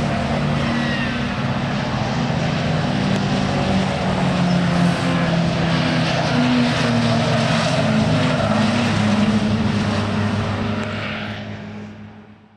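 Racing car engine running at fairly steady revs, fading out over the last second or so.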